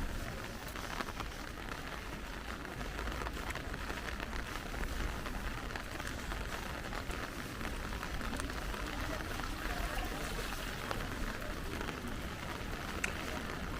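Steady rain falling, an even hiss with a few faint drip ticks and a low rumble underneath.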